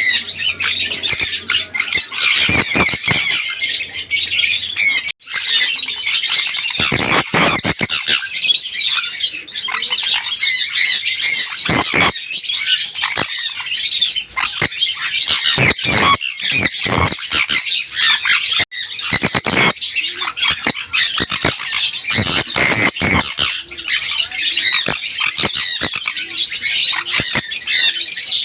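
Sun conures screeching and squawking loudly, shrill calls following one another almost without pause.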